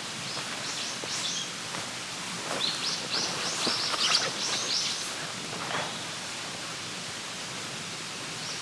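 Small birds calling in quick runs of short, high chirps over a steady outdoor hiss, with a few faint clicks.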